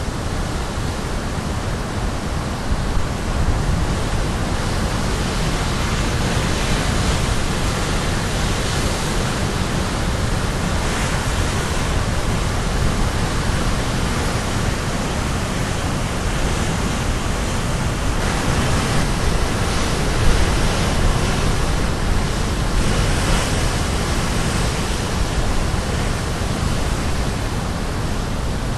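Sea waves breaking on the shore in a continuous rushing wash, with slow swells of surf every several seconds and heavy low rumble, likely with some wind on the microphone.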